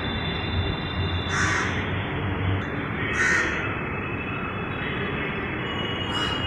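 Crows cawing three times, each a short harsh call, over the steady rumble of a metro train or station.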